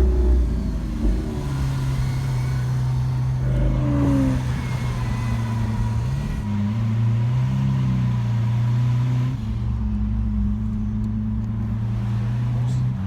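Lamborghini Aventador V12 running at low revs while driving, its note holding steady and stepping up and down in pitch a few times.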